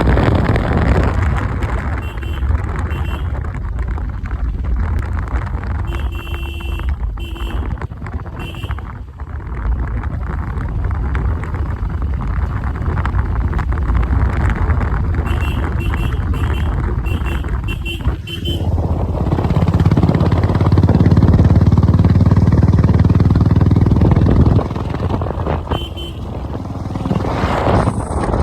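Royal Enfield Classic 350's single-cylinder engine running throughout, growing louder and fuller for about five seconds from around two-thirds in, then dropping back.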